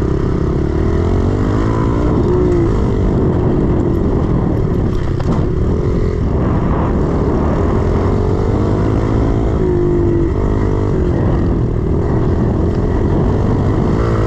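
110cc single-cylinder four-stroke pit bike engine being ridden, its pitch rising and falling again and again as the throttle is opened and closed.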